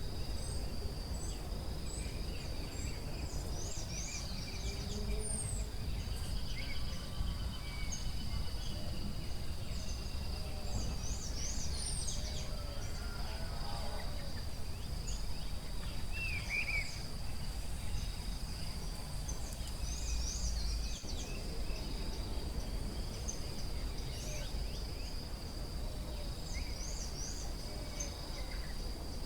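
Forest ambience: a steady high insect drone with many short bird chirps and calls over it, and a steady low rumble underneath.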